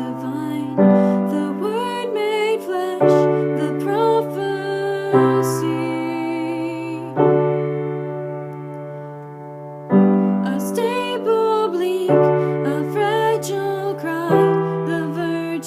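Slow piano accompaniment, a new sustained chord struck about every two seconds, with a voice singing a wavering melody over it. It softens for a couple of seconds around the middle.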